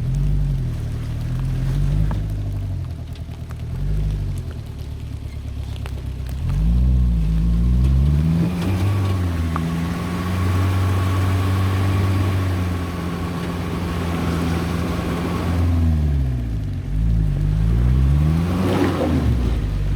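1997 Jeep Cherokee XJ's 2.5-litre VM Motori turbo diesel engine revving up and falling back several times, holding a steady pitch for several seconds in the middle.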